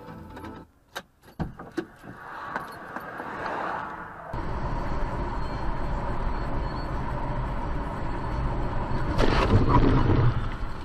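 Car road noise as a dashcam picks it up: a steady low rumble of engine and tyres that starts abruptly about four seconds in. A louder noisy swell lasting about a second comes near the end.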